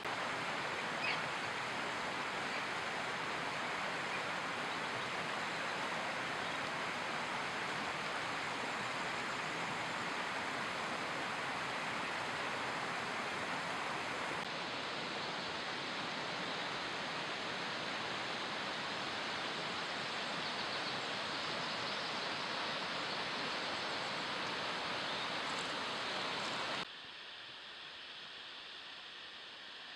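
Steady rushing of water from a river or waterfall, an even hiss with no pitch, cutting abruptly to a quieter rush near the end.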